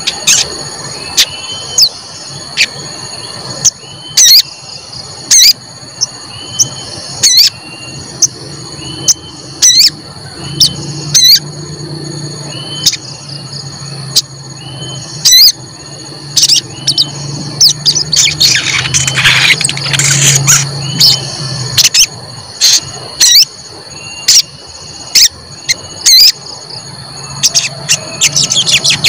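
A sogon songbird calling, a run of short, sharp, high "cuit cuit" chirps repeated throughout, mixed with a softer curved note every second or so. This is lure song used to make other sogon answer and sing.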